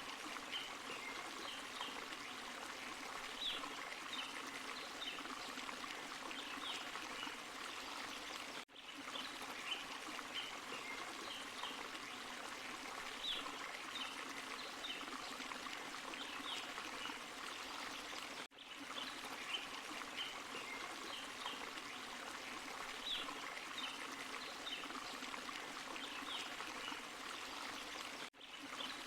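Small forest waterfall and stream running steadily over rocks, a continuous rush of water with small splashes and trickles. The sound dips out briefly three times, about ten seconds apart, and the same stretch of sound repeats after each dip.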